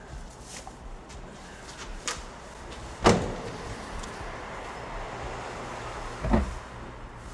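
A car door slamming shut about three seconds in, sharp and echoing off the concrete of a parking garage, after a small click a second before. A second, duller car-door thump follows a little after six seconds.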